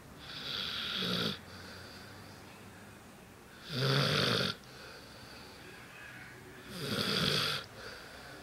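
Bernese mountain dog snoring: three loud snores about three seconds apart, each lasting about a second, a low rumble with a hissing breath on top.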